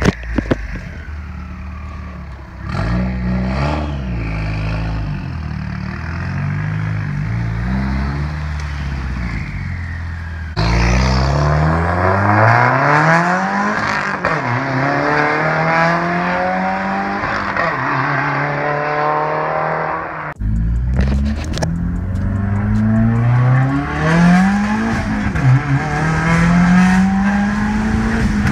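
Subaru WRX turbocharged flat-four engine accelerating hard, its revs climbing and dropping again and again as it shifts through the gears.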